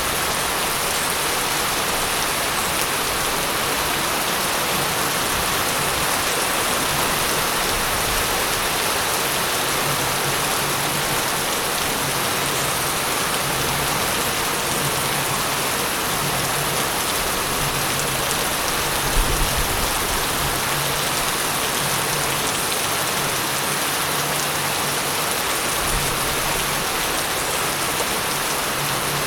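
Steady heavy rain falling, a dense even hiss of drops on surfaces. A brief low thump comes about two-thirds of the way through.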